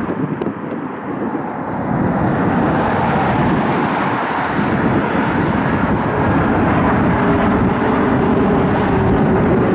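Bombardier CRJ regional jet's turbofan engines at takeoff power, growing louder about two seconds in and then holding steady, with wind blowing on the microphone.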